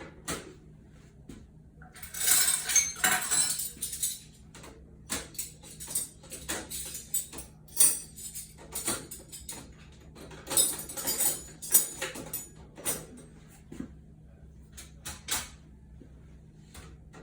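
Metal silverware clinking and rattling as pieces are put one at a time into the holes of a dishwasher cutlery basket, with a jangling flurry about two seconds in and another around ten to twelve seconds in.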